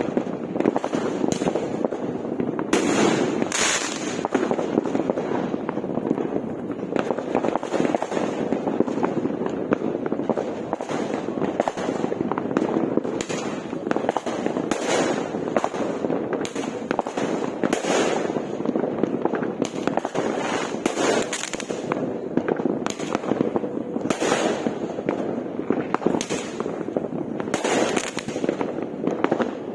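Many fireworks going off at once in a dense, continuous barrage: an unbroken crackle of overlapping bangs with louder bursts standing out every few seconds.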